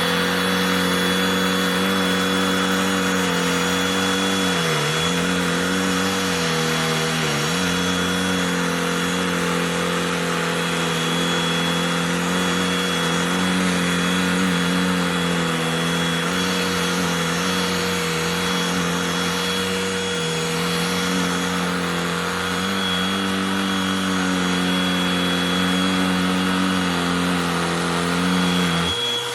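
Cordless handheld vacuum running steadily with a high motor whine; its pitch sags briefly twice, about five and seven seconds in.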